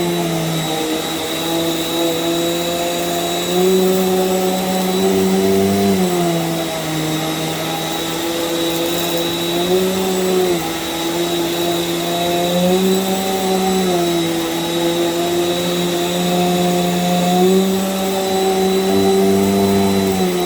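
Small Bissell vacuum cleaner running on a rug, a steady motor hum with a thin high whine. The pitch dips and rises a little every few seconds as the load on the motor changes.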